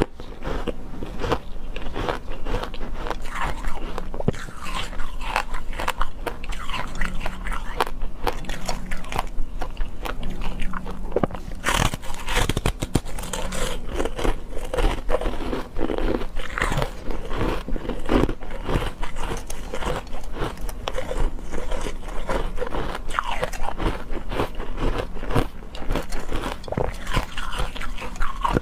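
Close-up biting and crunching of hard food or ice, with chewing, in a dense irregular run of sharp crunches.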